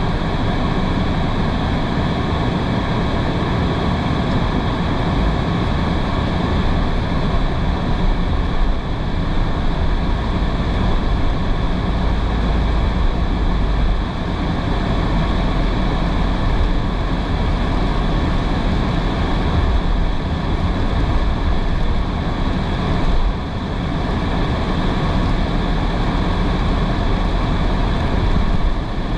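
A car driving in heavy rain: steady tyre and road noise on a wet road, mixed with the hiss of rain.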